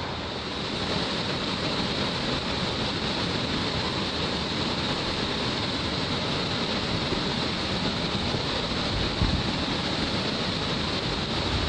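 Steady rush of a waterfall and mountain-gorge stream, an even hiss of water with no let-up. Two brief low thumps on the microphone, about nine seconds in and at the end.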